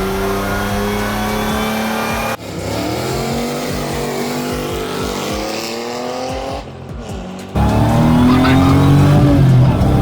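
Supercharged GM 3800 V6 in a Chevette running and accelerating, its pitch climbing as it pulls through the revs. The sound breaks off abruptly twice, and a louder full-throttle pull comes in about three-quarters of the way through.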